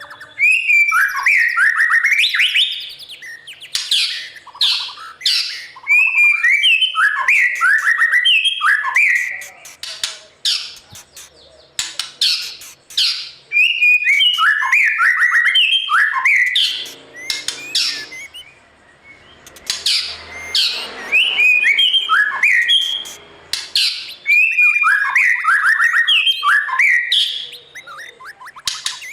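White-rumped shama singing: loud, rich phrases of fluty whistled notes mixed with sharp clicks, repeated again and again with short pauses between bouts.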